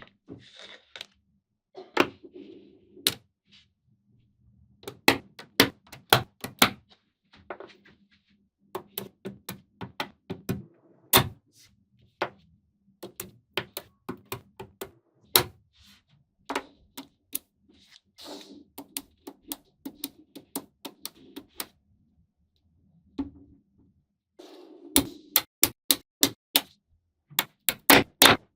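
Small magnetic balls snapping and clicking together as they are pieced into a model. Sharp clicks come in irregular bursts with softer handling noise between them, and there is a short pause about three quarters of the way through.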